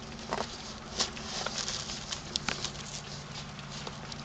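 Wild turkeys feeding, giving scattered sharp taps and patter at irregular intervals over a steady low hum.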